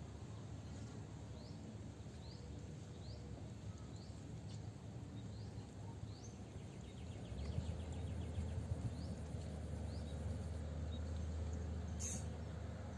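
Outdoor swamp ambience: a short, high, rising chirp repeats about once or twice a second. A low steady rumble comes in more strongly about halfway through.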